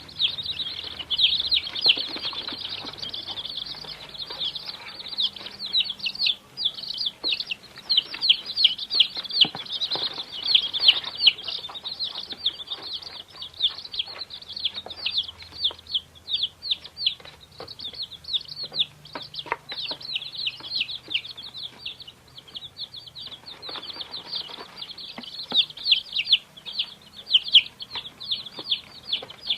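A brood of chicks peeping continuously, many short high-pitched calls overlapping, with a few soft knocks and scuffs underneath.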